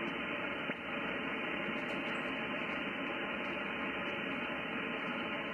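Steady band-noise hiss from a 20-metre amateur radio receiver on voice, narrow and thin-sounding with no highs, heard as the transceiver is back on receive after transmitting. A faint tick comes about a second in.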